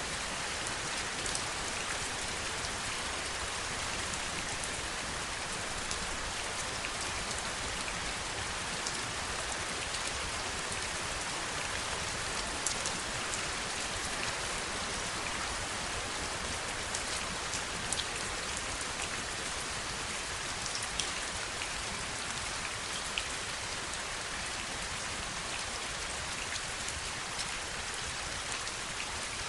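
Steady heavy rain, an even hiss with scattered sharper drop ticks landing on a surface.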